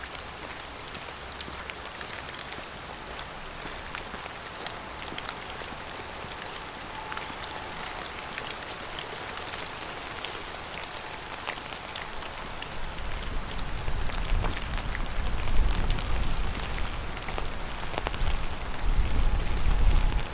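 Steady rain, with many individual drops striking close by. From about two-thirds of the way in, a low, uneven rumble builds beneath the rain and the overall level rises.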